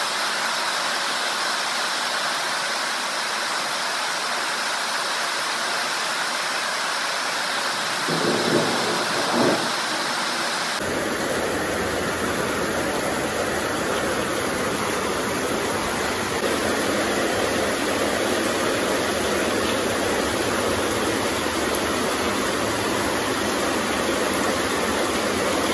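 Steady hiss of heavy rain falling, turning fuller and lower at about 11 seconds in. A couple of brief dull thumps come shortly before the change.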